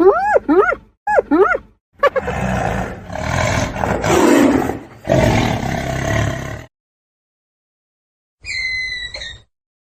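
Animal calls from a compilation, in three separate parts. First, a quick run of short rising-and-falling pitched calls that stops within the first two seconds. Then a rough, noisy animal vocalization that lasts about four and a half seconds. After a pause, one short high call comes near the end.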